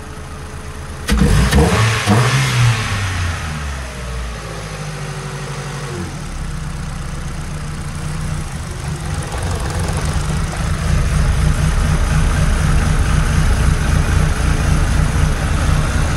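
Ford Zetec four-cylinder petrol engine running: about a second in its sound jumps up suddenly and its speed rises and falls for a couple of seconds, then it settles back into a steady, slightly uneven idle.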